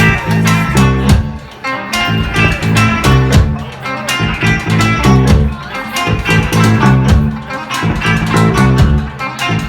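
Live rock band playing an instrumental intro: electric guitar and bass guitar over drums.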